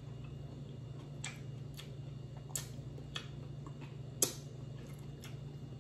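A person chewing a mouthful of food with the lips closed, with about six sharp wet mouth clicks and smacks at uneven intervals. A steady low hum runs underneath.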